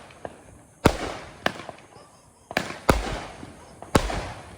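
A 200-gram consumer fireworks cake firing: about five sharp bangs, each trailing off in a fading crackling hiss, two of them close together in the middle.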